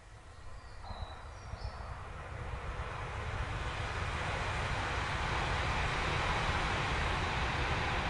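A train approaching through woodland: a rumble that builds steadily louder over several seconds as it draws near. A bird gives a couple of short chirps about a second and a half in.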